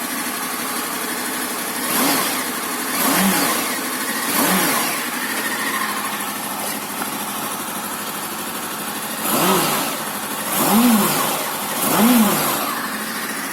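Honda VFR800 VTEC V4 engine idling and being blipped on the throttle about six times, each rev rising and falling back. It runs without the earlier top-end knock now that the stretched timing chain has been replaced.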